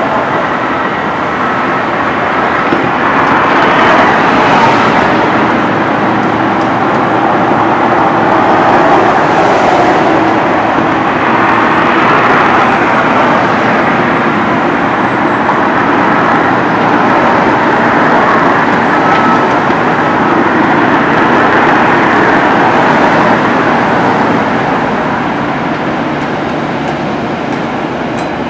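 Steady, loud running noise of a moving vehicle, an even rumble with no breaks.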